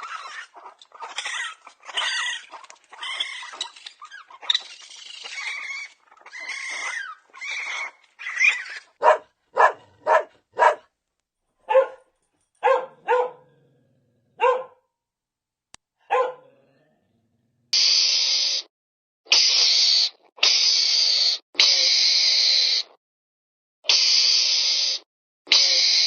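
Dog barking, yipping and whimpering in quick, varied calls, then a string of short separate barks. Near the end come six long, noisy hissing bursts of about a second each, with short gaps between them.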